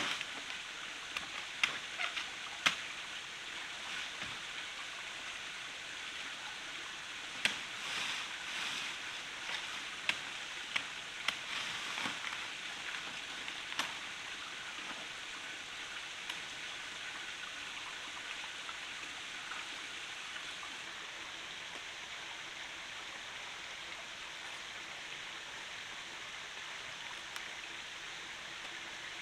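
Steady rushing of a forest stream, with a scattering of sharp knocks and clicks in the first half that then stop.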